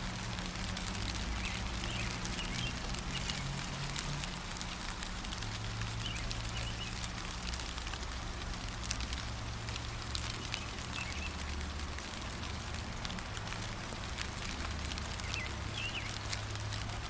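Steady gentle rain with many small drop ticks, and faint short bird chirps every few seconds. A low steady rumble runs underneath.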